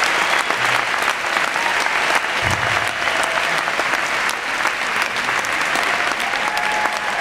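Audience applauding steadily after a prize winner is announced, with a few faint cheers among the clapping.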